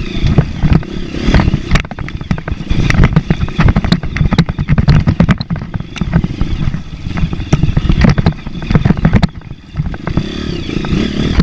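Motorcycle ridden over a rough dirt trail: the engine runs at low revs under an uneven, choppy sound, with frequent knocks and rattles from the bumps. The sound drops briefly about nine seconds in.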